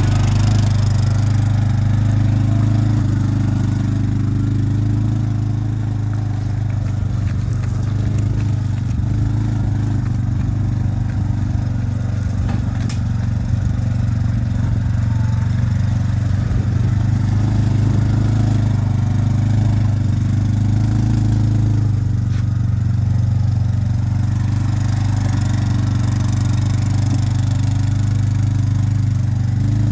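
Russian Mechanics RM 650 quad bike engine running steadily, a low even drone with no breaks.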